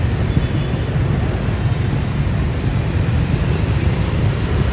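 Heavy city street traffic: a steady, loud rumble of many passing engines.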